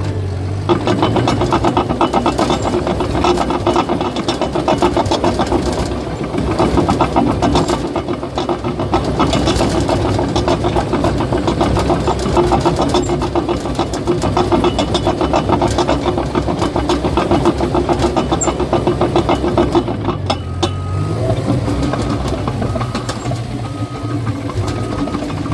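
Caterpillar bulldozer's diesel engine running under load with the fast, rhythmic clatter of its steel tracks moving; about 20 s in the clatter stops and the engine settles to a steadier run.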